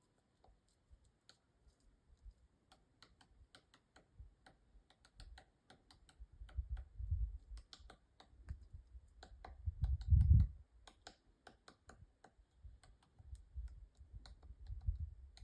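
Woodpecker pecking at wood: a long run of sharp, irregular taps, several a second, uneven in strength. Heavier low thuds come in bursts partway through, the loudest about ten seconds in.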